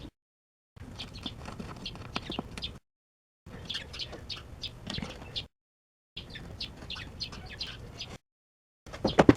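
Birds chirping in the background while small tools click, in short stretches cut apart by brief gaps of total silence. A few loud, sharp clanks come about nine seconds in.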